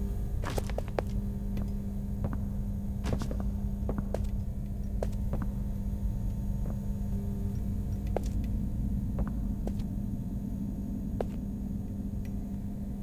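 Steady electrical hum with low rumble, broken by scattered light clicks.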